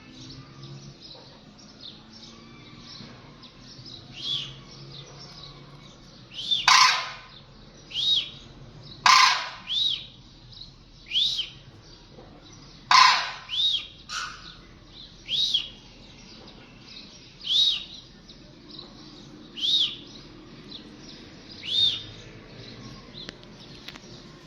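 Birds calling: a repeated short, arched high chirp every second or two over a faint chorus of twittering. Three louder, harsher calls break in, about a third and halfway through.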